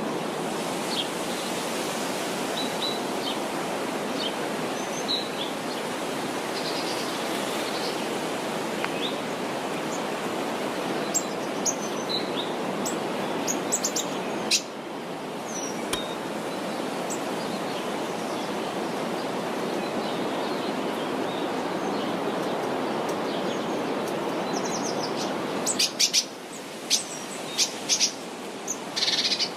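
Birds chirping here and there over a steady rushing background noise, which dips briefly about halfway through; near the end comes a quick cluster of short, high chirps.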